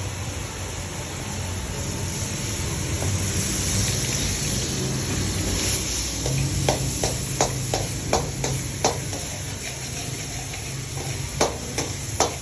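Food sizzling in a frying pan with a steady hiss. A run of sharp clicks from a utensil against the pan comes about six seconds in, and two more near the end.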